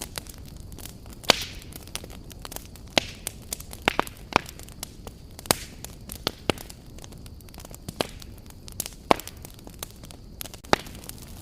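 Wood campfire crackling: irregular sharp pops and snaps over a steady low hiss, with a few pops much louder than the rest.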